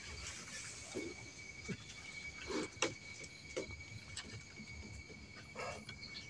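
Steady, faint high-pitched trill of insects such as crickets, with scattered soft clicks and knocks.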